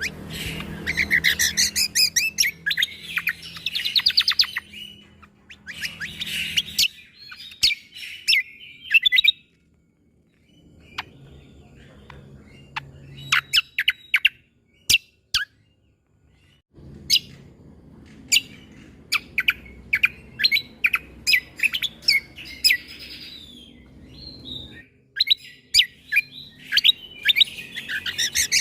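Cucak kombo (kecial kombo) songbird calling in sharp, clicky 'shot' notes mixed with rapid chattering trills, the bursts broken by short pauses about a third and about half of the way in.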